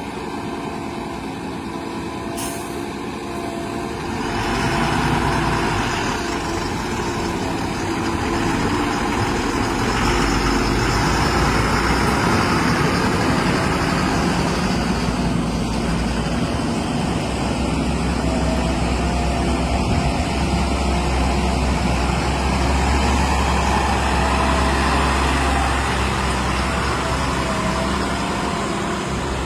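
Heavy diesel engines of earthmoving machinery and a tipper truck running, getting louder about four seconds in and then holding steady.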